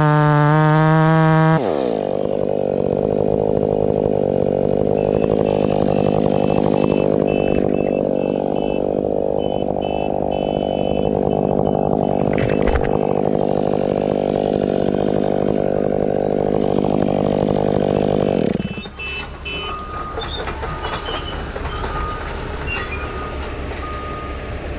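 Husqvarna 500i two-stroke chainsaw at full throttle, cut off about a second and a half in. A steady vehicle engine drone follows and stops suddenly near the end, after which short repeated beeps are heard.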